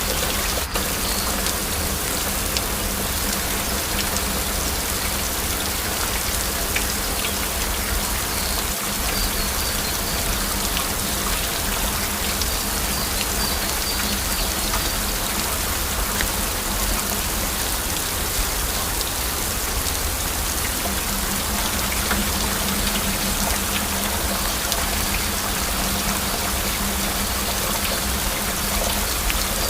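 Heavy rain falling steadily: a dense, even hiss of drops with scattered sharper ticks.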